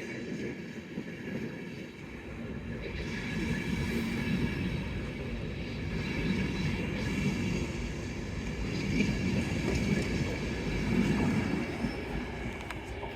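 A train running along the track, a steady rumble of wheels on rails with faint high-pitched tones over it.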